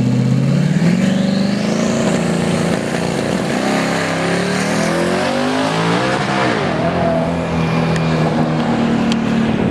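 Drag cars' V8 engines running loud at the strip, one revving up about a second in with a high whistle rising alongside. The engine pitch swells and falls again around six seconds in.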